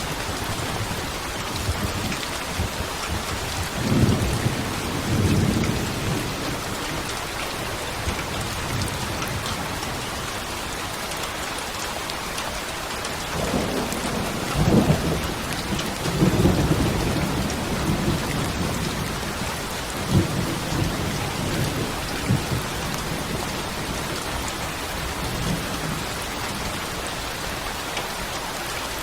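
Steady heavy rain with rolling thunder: low rumbles swell about four seconds in and again from about thirteen to eighteen seconds, with shorter ones after.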